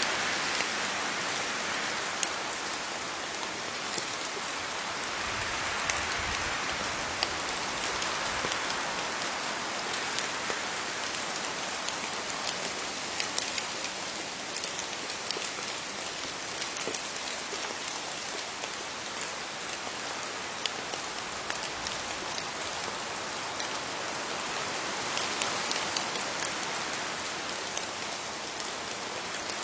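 Steady rain falling on leaves, an even hiss with many small sharp drop ticks, swelling and easing slightly from time to time.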